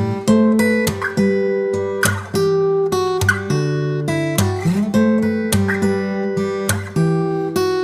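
Acoustic guitar music: chords strummed and left ringing, changing every second or so, with a short sliding note about halfway through.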